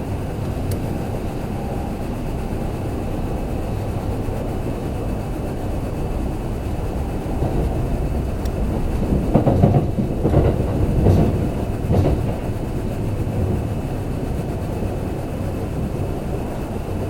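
Kintetsu limited express train running along the line, heard from inside the passenger car: a steady rumble of wheels on rail, with a run of louder clacks and knocks from the wheels about nine to twelve seconds in.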